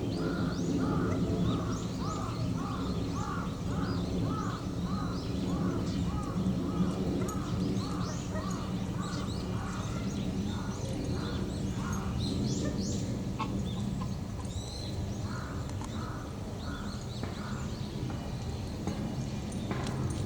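Birds calling: a series of short repeated calls, about three a second for the first several seconds, then sparser, with scattered higher chirps above, over a steady low background hum.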